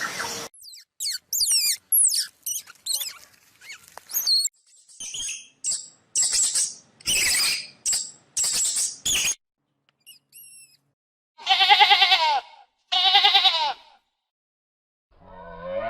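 A string of animal calls: quick high squeaks and chirps sliding in pitch, then a run of short, hissy squealing calls. Near the end come two long wavering bleats like those of a sheep or goat.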